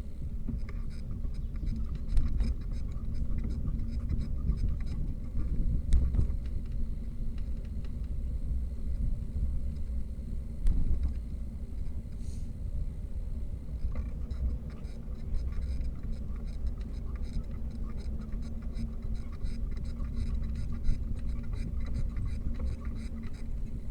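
Riding a bicycle: steady low wind and road rumble with frequent small rattling clicks.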